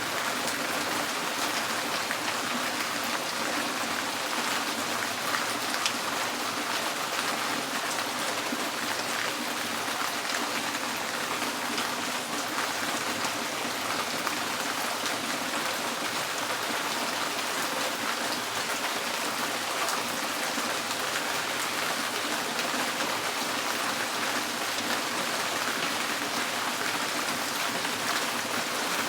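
Steady rain drumming on a tin porch roof, a dense even patter of many small drop strikes.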